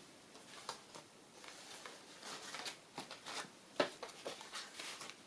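Paper and card being handled: rustling and small taps and clicks as small paper tags are sorted through, with a sharper click a few seconds in.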